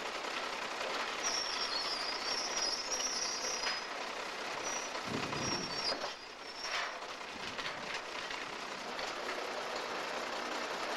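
USAF Engine 4040, a railroad switcher locomotive, running while it works coal hopper cars, with high-pitched metallic squealing from about one to four seconds in and again around five seconds.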